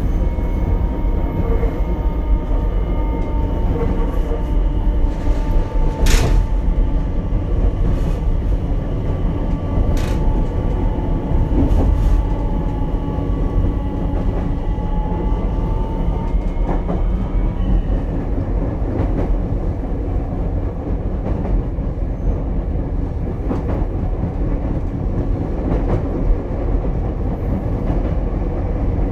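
Ichibata 7000 series electric railcar running, heard from inside: a steady low rumble of wheels on rail with a few sharp clicks over the rail joints. A high, faint whine sinks slightly in pitch and stops a little past halfway.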